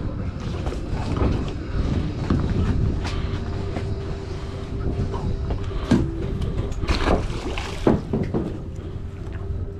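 A boat's engine runs steadily under a low rumble of wind and water, with a few sharp knocks in the second half.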